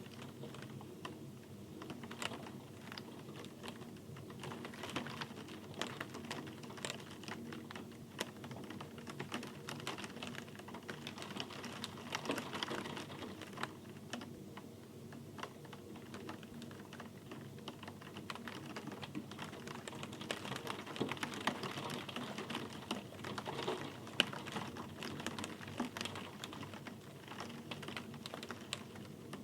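Rain falling steadily, with many individual drops tapping irregularly and close together on a hard surface.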